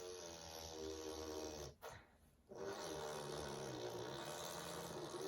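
A toddler making car-engine noises with her voice: one held noise of about two seconds, a short break, then a second, longer one.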